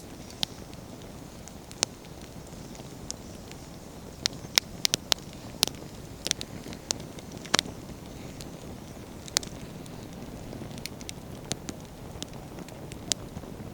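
Wood campfire burning: firewood crackling and popping in sharp, irregular snaps, with a quick run of them about four to six seconds in, over a steady low rumble.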